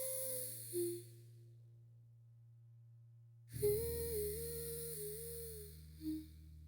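Music outro: a wordless hummed melody over a soft, sustained low backing tone. The humming stops about half a second in, leaving only the quiet low tone, then comes back with a second short phrase over a fuller bass about three and a half seconds in.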